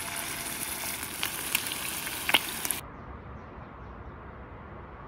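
Chicken sizzling in hot oil in a frying pan as a piece is lowered in with tongs, a dense hiss with a few sharp pops. The sizzle cuts off suddenly a little under three seconds in.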